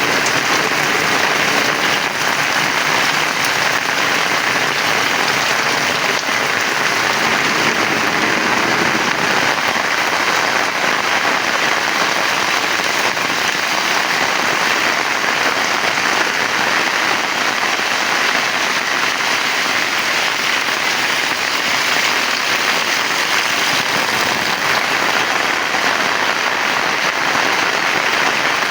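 Heavy rain falling steadily: a dense, even hiss of rain on surfaces that does not let up.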